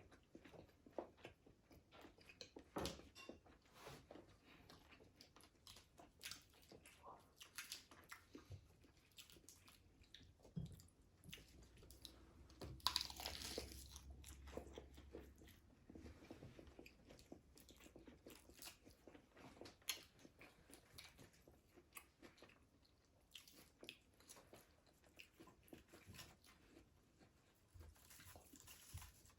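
Faint chewing with repeated crunching bites into a crispy fried egg roll, and one louder crunch about thirteen seconds in.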